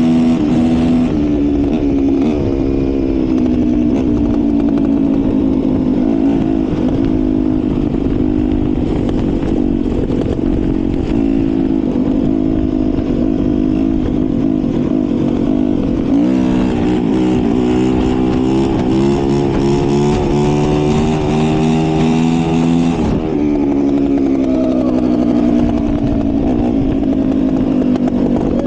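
Dirt bike engine running while riding, its pitch rising and falling with the throttle and changing abruptly a few times, about a second in, around the middle and again a few seconds later.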